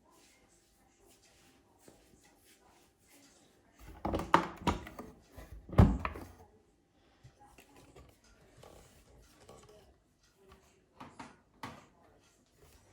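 A cluster of knocks and one heavy thump about four to six seconds in, then two lighter clicks near the end.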